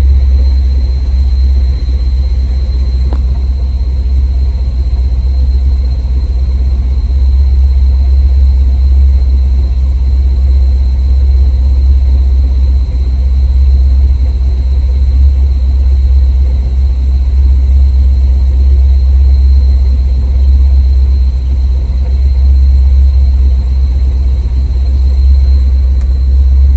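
Car engine idling steadily, a loud, even low exhaust rumble, with a thin steady high-pitched tone over it.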